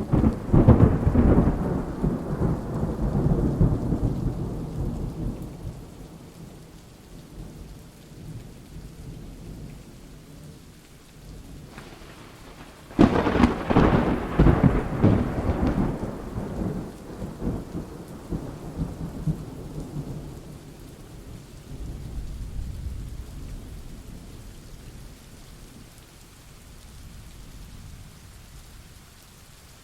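Thunderstorm with steady rain. One thunderclap breaks right at the start and rumbles away over about five seconds. A second, sharper crack comes about 13 seconds in and rolls on for several seconds, and a fainter rumble follows near 22 seconds.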